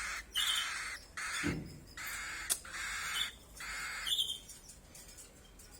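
Young hand-reared birds giving harsh, raspy begging calls, about five in a row, then quieting near the end: the hunger call chicks use to ask to be fed.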